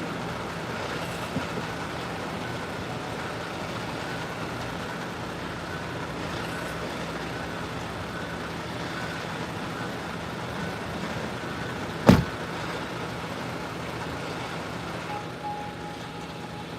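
Steady hum of idling vehicle engines in stopped traffic, with one sharp knock about twelve seconds in.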